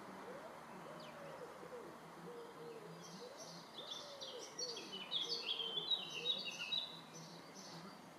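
Garden birds singing, with a busy run of quick high chirps that starts about three seconds in and fades out near the end.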